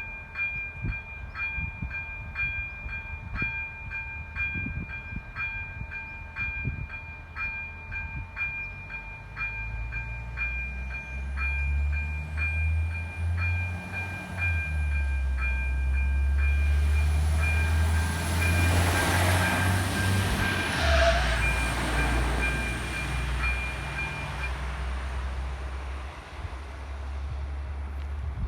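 Level-crossing warning bell ringing in steady, evenly repeated strokes while a RegioShark diesel multiple unit (ČD class 844) approaches and passes. A low engine rumble and a high whine build from about a third of the way in and are loudest around two-thirds through. The bell stops soon after the train has gone by.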